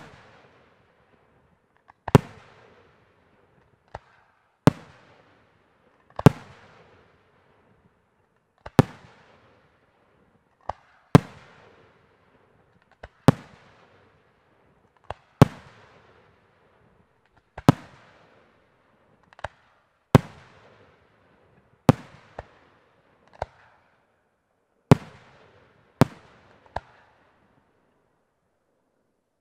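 Aerial firework shells bursting one after another, a sharp bang about every two seconds. Each bang trails off in an echo, and smaller pops fall between them.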